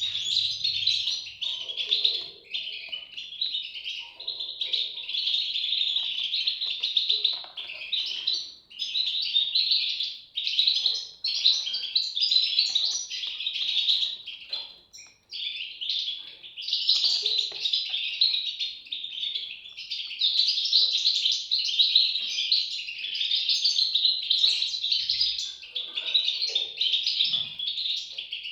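European goldfinch chicks calling: a dense, almost unbroken chorus of high, thin chirps, with one short pause a little past halfway.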